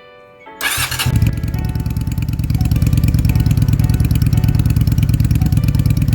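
Honda Shadow 400 V-twin with a Kentec aftermarket muffler starting up about half a second in, then running at a steady, evenly pulsing idle.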